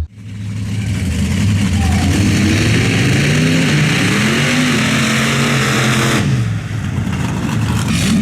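Monster truck engine revving loudly: its pitch climbs from about two seconds in, holds, then falls away near the end over a heavy rush of exhaust noise.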